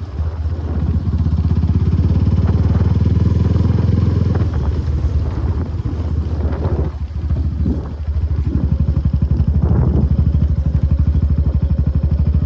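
Suzuki Gixxer SF250's single-cylinder engine through an Akrapovic exhaust, running at low speed. The note eases off about seven seconds in, then settles into an even, rapid exhaust beat.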